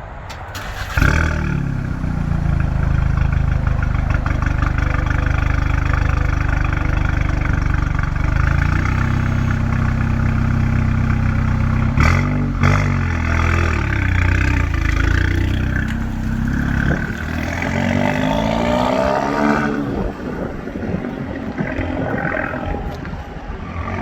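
Turbocharged four-cylinder engine of a Volkswagen Golf R with an HPA FR450 turbo, coming up sharply about a second in and running steadily. Near the end the revs climb twice as the car accelerates, then drop away.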